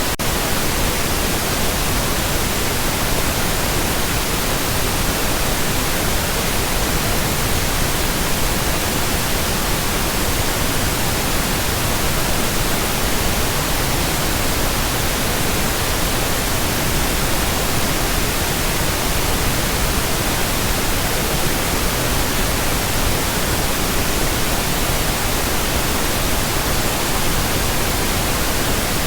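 Pink noise: a steady, even hiss spread evenly from deep to high pitches, unchanging throughout.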